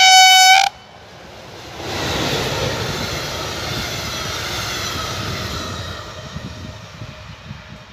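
A short, very loud single-tone horn blast from an approaching electric train. Then an electric-hauled double-deck passenger train runs past, its wheels and running gear making a steady rush that swells about two seconds in and fades near the end.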